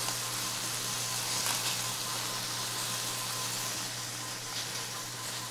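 Slabs of tofu frying in olive oil in a skillet, giving a steady, even sizzle.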